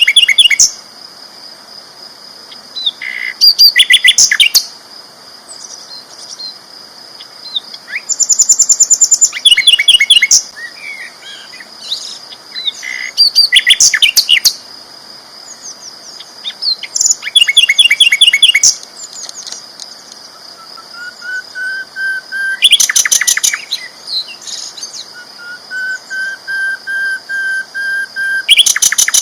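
Sikatan londo flycatcher singing loud bursts of fast, rattling repeated notes about every four to five seconds, with long, even whistled notes in between near the end. A steady high-pitched tone runs underneath throughout.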